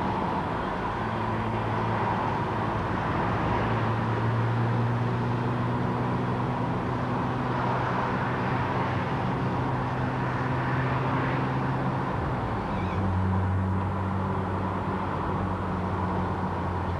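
Steady engine and road noise inside a moving car, with a low drone that drops in pitch about twelve seconds in.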